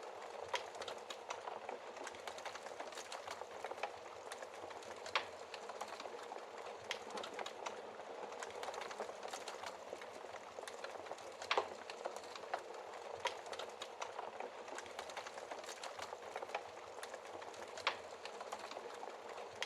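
Wood fire burning with a steady hiss and dense irregular crackling, broken by a few louder pops of burning wood about five, twelve and eighteen seconds in.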